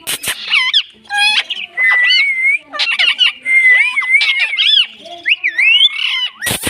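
Indian ringneck parrot calling: a busy run of whistled chirps and squawks that glide up and down in pitch, with a couple of sharp clicks near the start and the end.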